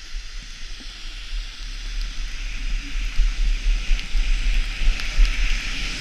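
Skis sliding on snow, a hiss that grows louder from about two seconds in, with wind buffeting the microphone as a low rumble.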